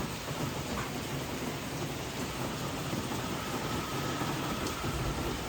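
Steady monsoon rain falling, an even hiss, with a low rumble building near the end.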